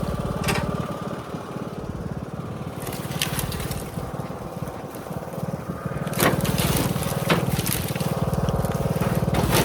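Small engine running steadily, dropping in level for a few seconds and louder again about six seconds in, with scattered knocks and cracks of branches being pulled off and dumped.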